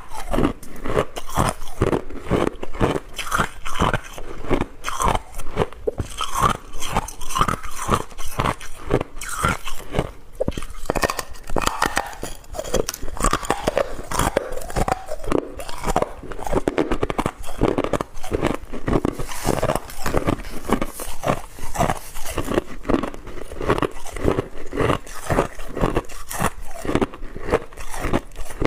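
Close-miked crunching of hard ice being bitten and chewed, a rapid run of crisp cracks and crunches that keeps going without pause.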